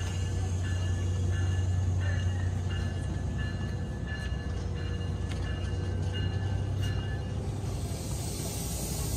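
New Jersey Transit passenger train rolling slowly past as it pulls out of the station, with a steady low hum, a few wheel clicks on the rails and repeated high ringing tones that stop about seven seconds in.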